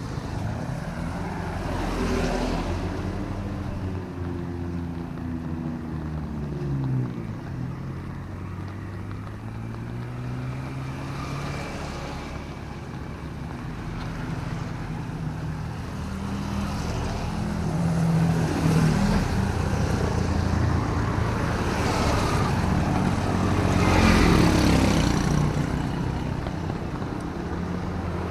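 Road traffic on a wet city street in drizzling rain. Several vehicles drive past, their engine hum falling in pitch as each goes by, with tyre hiss swelling on the passes. The loudest pass comes near the end.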